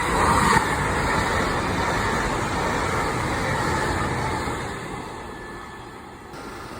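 Train going by close on the line, a steady rumble of wheels and motors that is loudest for the first four seconds or so, then fades away.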